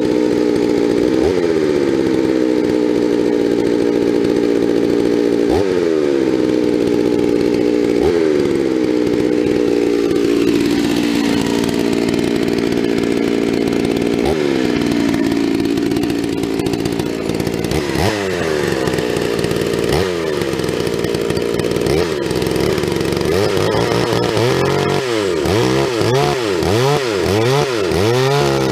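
Two-stroke chainsaw running at high revs while bucking firewood, its pitch dipping and recovering every few seconds as the chain bites into the log. Near the end the engine falls to a lower, uneven speed.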